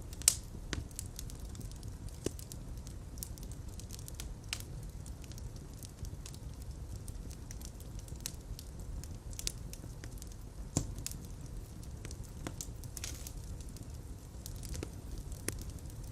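Fire crackling in a fireplace: a steady low rumble of flames with irregular sharp pops, the loudest just after the start.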